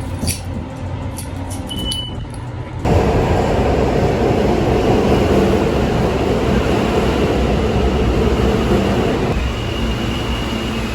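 Moving vehicle's steady rumbling noise. It starts abruptly about three seconds in, after quieter background sounds with a few light clicks.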